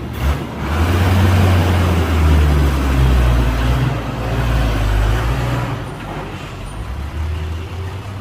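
Diesel engine of a Hyundai dump truck running with a deep, loud drone that rises and falls in pitch, easing off somewhat about six seconds in.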